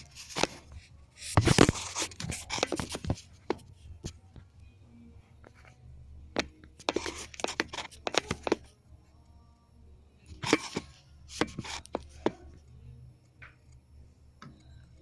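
Clicks, knocks and rustling from handling the pieces of a hole saw set and its case, in irregular clusters with the loudest clatter about one and a half seconds in.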